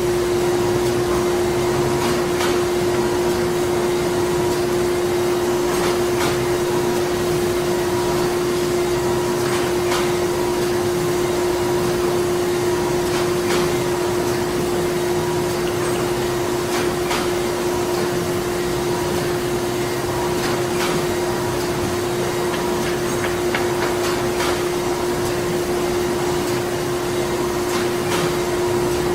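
Printing-factory machinery running steadily: a constant mechanical hum with one strong steady tone, a fainter broken tone above it, and faint clicks every few seconds.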